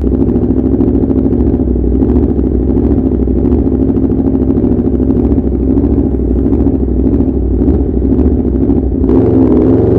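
2017 Aprilia RSV4 RF V4 engine running through an SC Project S1 Low Position slip-on exhaust, a steady, rapid, pulsing exhaust note. It gets louder about nine seconds in as the revs pick up.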